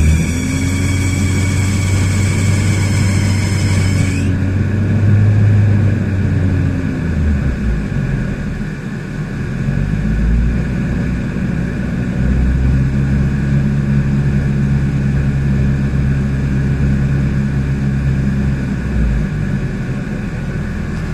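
Car engine idling with a high-pitched, multi-tone squeal that stops abruptly about four seconds in, a noise the owner suspects comes from the air-conditioner V-belt. After that the engine's low hum carries on, its note changing a few times.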